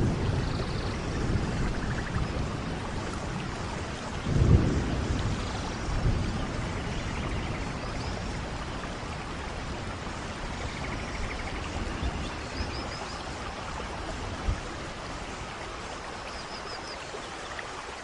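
Steady rainfall, with low rumbles of distant thunder swelling about four and a half and six seconds in.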